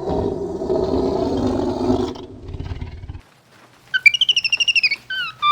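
A deep animal roar that fades out over the first two or three seconds, then a bird's rapid warbled trill followed by short whistled chirps near the end.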